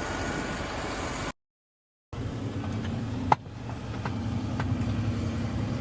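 Box truck engine running, broken by a moment of dead silence about a second in; afterwards a steady low engine hum with one sharp click about three seconds in.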